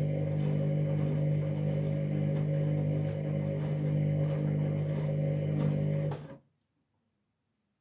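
Candy washing machine running with a steady hum. The hum cuts off suddenly about six seconds in.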